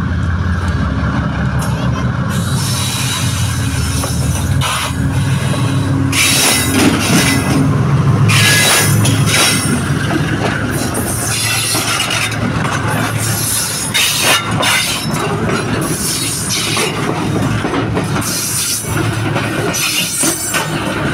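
Pakistan Railways GEU-40 diesel-electric locomotive passing close by at the head of a loaded freight train. Its steady engine drone gives way, a few seconds in, to the loud rolling noise of the wagons' steel wheels on the rails, with repeated bursts of high squealing.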